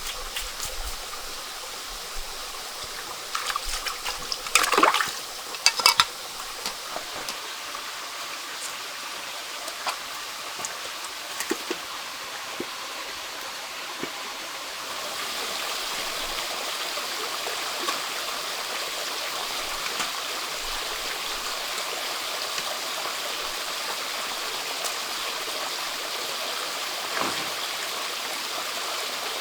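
Running water, a stream or trickle, flowing steadily and growing a little louder about halfway through, with a few sharp knocks and clicks about four to six seconds in.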